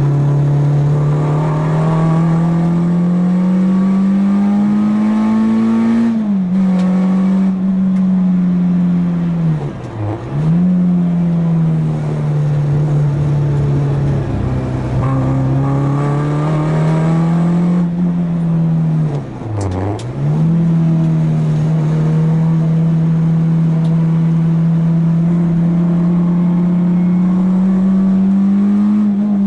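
Renault Clio 2 RS1's four-cylinder engine driven hard on a race track. Its note climbs slowly under load, dips sharply twice as the driver lifts off, and pulls up again.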